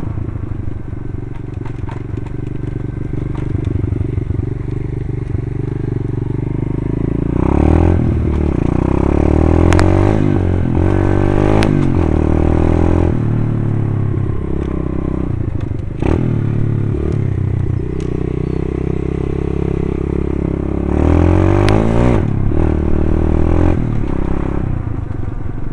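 Pit bike engine running as it is ridden, with two spells of revving up and easing off, one about a third of the way in and another near the end, and scattered clicks and clatter.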